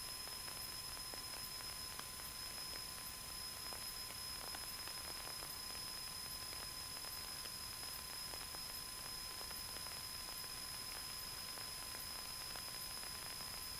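Faint steady hiss with a thin steady tone running through it: the open, quiet channel of an air traffic control radio feed between transmissions.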